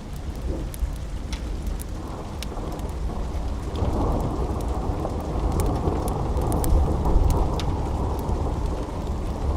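Steady rain with a low roll of thunder that swells about two seconds in and grows louder through the middle. Scattered sharp crackles of a wood fire sound through it.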